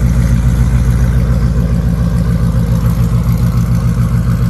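Ford Mustang GT V8 idling steadily with an even, low pulsing exhaust note through new, quieter Borla S-Type mufflers, fitted after the louder ATAK mufflers blew out.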